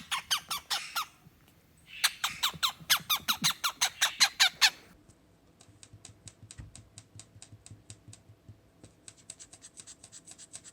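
Cockatiel making rapid squeaky clicking chirps, about seven a second. The run is loud for the first second and again from about two to five seconds in, then goes on as a fainter run of clicks.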